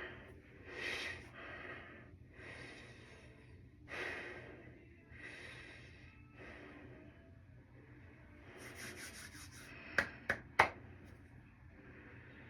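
A person breathing hard in separate loud exhalations. A quick run of light ticks comes about nine seconds in, then three sharp clicks or knocks in under a second.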